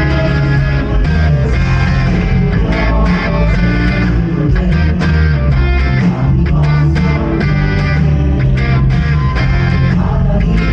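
Live church praise band playing a worship song, led by electric guitar over bass, with steady drum hits.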